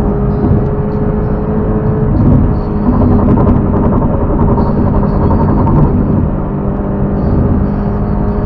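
Vehicle engine and road noise picked up by a dash cam: a loud, steady drone with a low hum that shifts slightly in pitch a couple of times.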